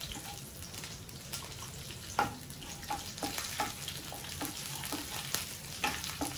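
Whole spices and fresh mint leaves sizzling in hot oil in a nonstick pan, stirred with a wooden spatula that knocks and scrapes against the pan now and then. The loudest knock comes about two seconds in.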